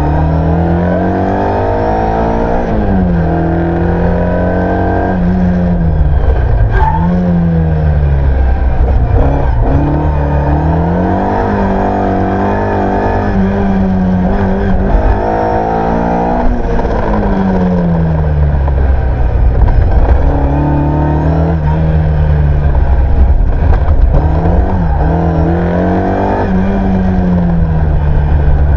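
Ford Escort Mk1 rally car's four-cylinder engine heard from inside the cabin, driven hard. The revs climb and drop again and again every few seconds as the driver accelerates, changes gear and lifts for corners.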